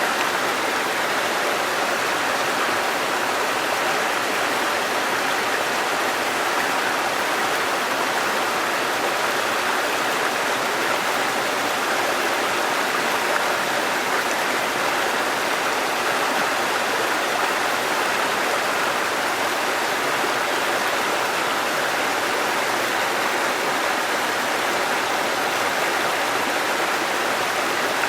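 Waterfall and stream water rushing in a steady, unbroken flow.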